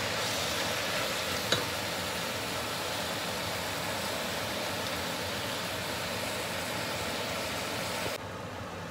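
Spinach and onions sizzling in olive oil in a steel pot: a steady frying hiss as the leaves wilt. A wooden spoon taps the pot near the start and again about a second and a half in, and the hiss thins about eight seconds in.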